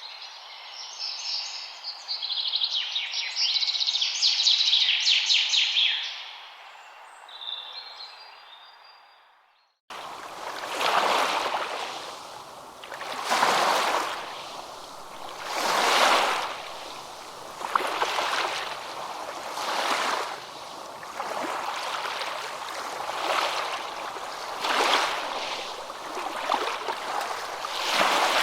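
Birdsong of rapid, high chirping notes that fades out about ten seconds in. After a moment of silence, the rush of waves starts abruptly, swelling and ebbing every two to three seconds.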